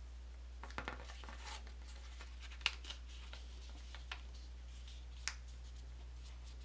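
A sheet of origami paper being folded and creased by hand: faint rustling with a few sharp paper crackles, the loudest about two and a half seconds in and another just past five seconds.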